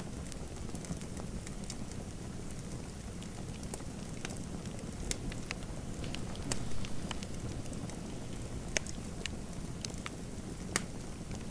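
Fireplace fire crackling: a steady low rumble with irregular sharp pops, two of them louder near the end.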